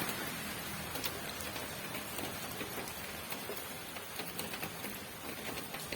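Steady rain falling, a constant hiss with scattered sharp taps of single drops hitting nearby.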